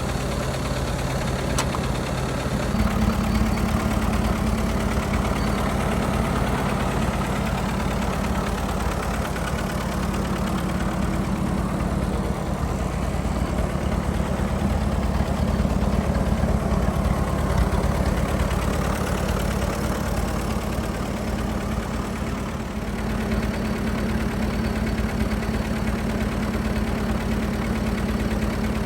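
1924 Fordson F tractor's four-cylinder engine running steadily, its note changing slightly about three seconds in.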